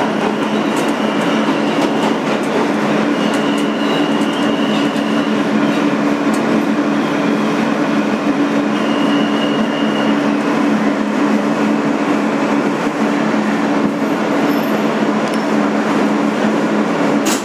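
Inside a Kawasaki R-160B subway car: a steady rumble with a constant low hum. Three brief high whining tones come through, and there is a sharp click near the end.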